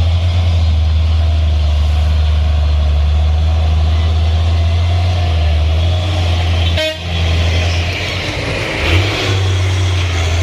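Truck engine running steadily with a deep, loud hum, broken by a short dip and click about seven seconds in.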